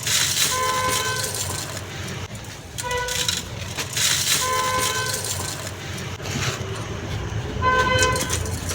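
Dry golden sand crumbling onto a clay pot in three hissing, crunchy bursts. Vehicle horns honk behind it several times.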